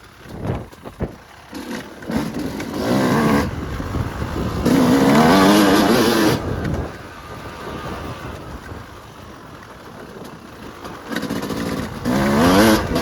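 Yamaha YZ250 two-stroke dirt bike engine being ridden, revving up in bursts: once about two seconds in, a longer and loudest burst around the middle, then dropping back to a low running sound before another rev near the end. A few short knocks come in the first second.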